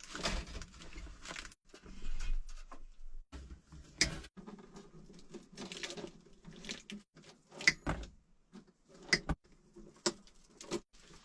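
Iron wire being snipped and worked by hand: irregular sharp clicks and snaps, the loudest four about 4, 8, 9 and 10 seconds in, between stretches of scraping and handling noise.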